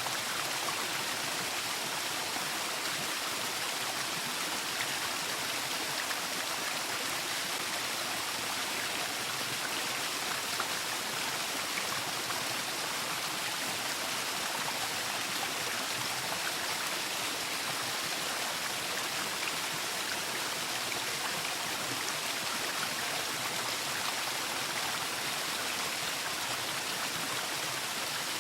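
Waterfall: falling water rushing steadily, an even hiss strongest in the upper middle range with no breaks.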